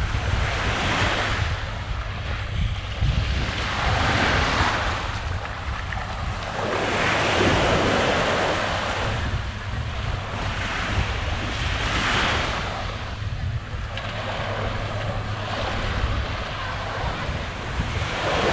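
Small waves breaking and washing up the shore in repeated swells of hiss every couple of seconds, with a steady low rumble of wind buffeting the microphone.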